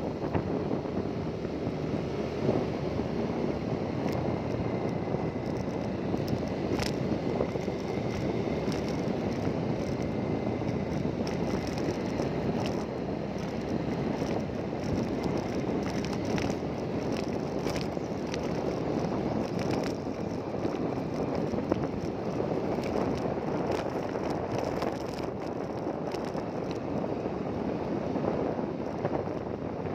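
Steady wind rushing over the microphone with a motor running underneath, the sound of riding in a moving vehicle, with a few faint clicks and rattles.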